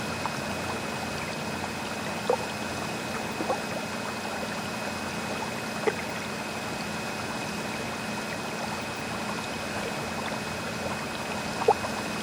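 Laboratory aquarium water running and trickling steadily over a steady low hum, with a few brief plinks of drips or bubbles scattered through it.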